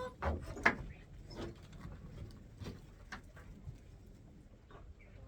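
Farmyard birds making scattered short calls and clucks, with a sharp click or knock about two-thirds of a second in.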